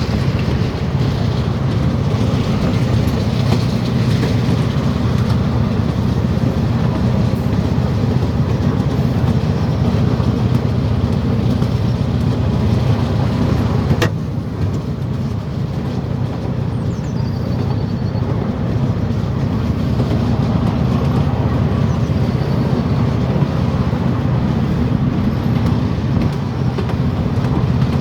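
Train running steadily, a continuous low rumble with a single sharp click about halfway through.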